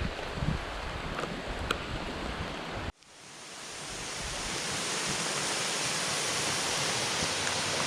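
Rushing water of a rainforest river and waterfall, a steady noisy rush with some low wind rumble and a few light clicks. About three seconds in the sound cuts out abruptly, then a steadier, brighter rush of falling water fades back up and holds.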